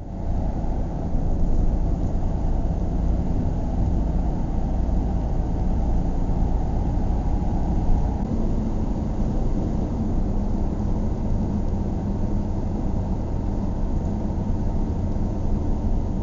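Steady low rumble of a car driving, road and engine noise heard from inside the moving vehicle.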